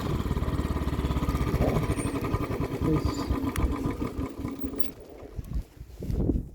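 A vehicle engine running with a rapid, even pulsing beat that grows steadily fainter, with a couple of short bumps near the end.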